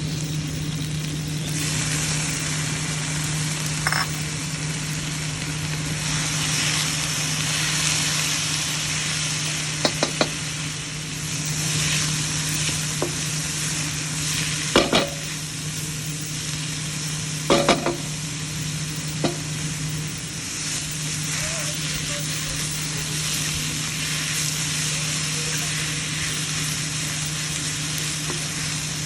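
Food sizzling in a hot pan as it is stir-fried, the sizzle swelling and easing every few seconds, with several sharp knocks of a utensil against the pan. A steady low hum runs underneath.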